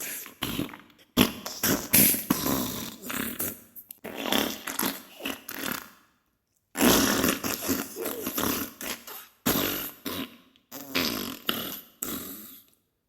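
Diarrhea sound effect: wet fart noises, one burst after another, with a short break about six seconds in.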